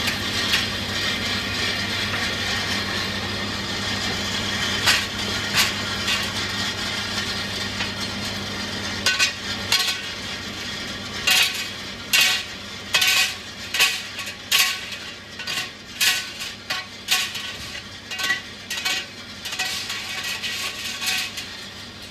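A steady machine hum for about the first nine seconds. Then comes a run of irregular, sharp metallic clanks and knocks, more than a dozen, typical of metal parts being handled or struck in a workshop.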